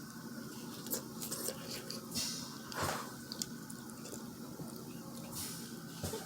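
Faint eating sounds: chewing and wet mouth noises, with scattered small clicks from handling food.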